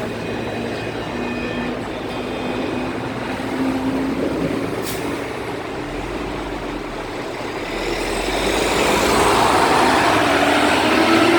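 Daewoo NEW BS106 city bus with a Doosan GL11P natural-gas engine, running under way. A drive tone rises slowly in pitch twice as the bus gathers speed, and the run grows louder near the end. A brief hiss comes about halfway through.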